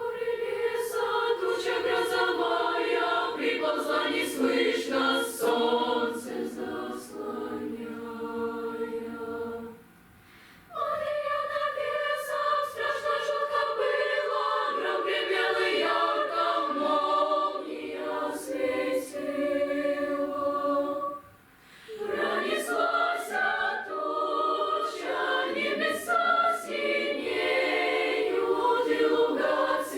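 Children's choir singing a Russian song in phrases, with two brief breaks between phrases, about a third and two-thirds of the way through.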